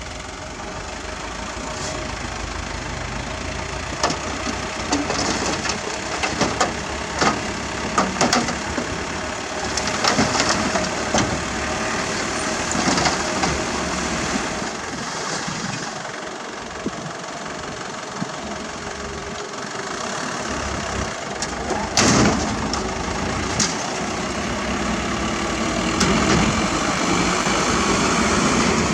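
Diesel engines of heavy earthmoving machinery running steadily, with scattered sharp clanks and knocks and one loud bang a little past the middle. The engine sound grows louder near the end.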